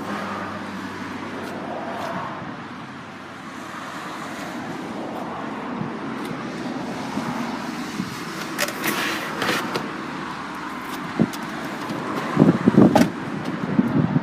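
Road traffic going by as a steady hum of noise, with a few short clicks and a cluster of louder knocks near the end.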